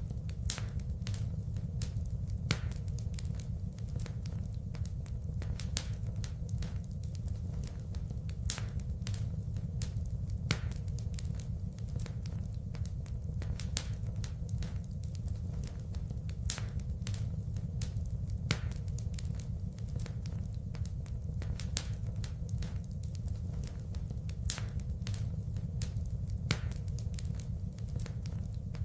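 Wood fire in a fireplace crackling, with a steady low rumble under many small snaps and a louder pop about every two seconds.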